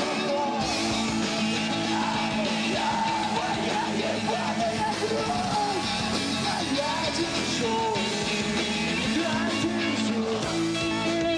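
Live emo rock band playing a song, with a singer's voice over the band.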